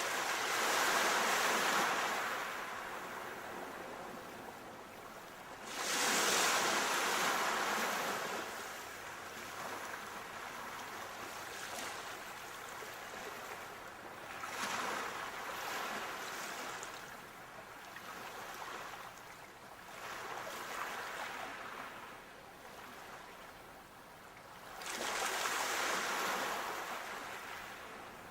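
Sea waves breaking and washing up the shore, in surges every five to ten seconds, with a steady hiss of surf between them.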